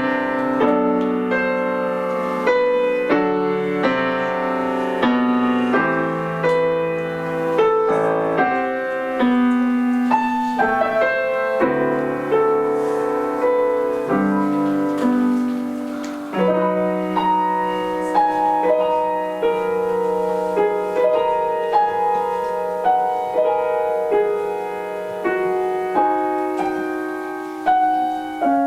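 Piano playing a classical-style piece, a steady flow of single notes with sustained chords beneath.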